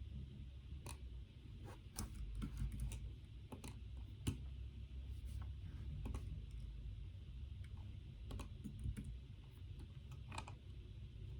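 Typing on a computer keyboard: irregular keystroke clicks, some in quick runs and some single, over a steady low background hum.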